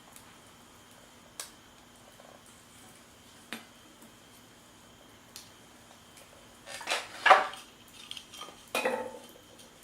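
Cookware and utensils being handled: a few isolated light clicks, then a burst of clinking and clattering near the end.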